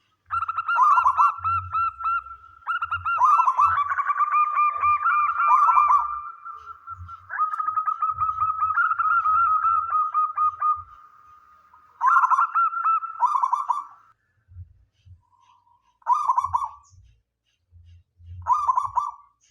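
Male zebra dove (perkutut) cooing: a run of fast, trilled cooing phrases, repeated with short gaps, two trills overlapping for a moment in the first third, and shorter phrases near the end.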